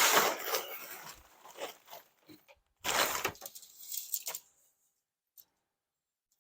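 Rustling of a nylon tent and its bag being handled, in two short bursts about three seconds apart with a few smaller rustles after, then quiet.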